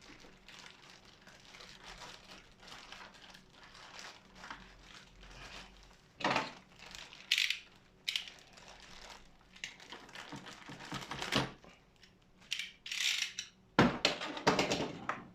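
Unpacking of an impact wrench's accessory kit: plastic packaging crinkling and rustling, with small clinks of metal impact sockets being handled. The noises come in irregular bursts, with the loudest handling a little past halfway and near the end.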